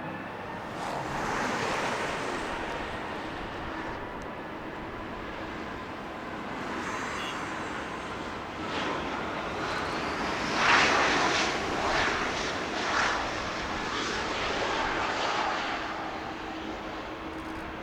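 Jet airliner's engines, a steady noise with a held whining tone, swelling to its loudest about eleven seconds in with a few rough surges, then easing off.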